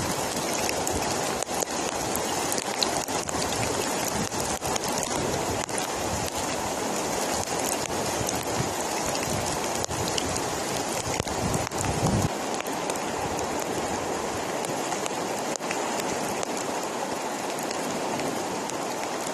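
Heavy rain pouring down in a steady, dense hiss. Low rumbling bumps sit under it for the first twelve seconds or so, then stop.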